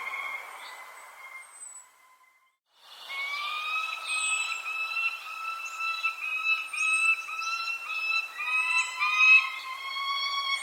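Birds chirping in short, high notes over a steady whistling tone. The sound drops out almost completely about two seconds in, then resumes with denser chirping.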